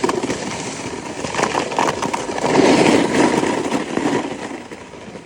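Snowboard sliding over snow: a rough, crackling scraping hiss that swells about two and a half seconds in and fades away near the end.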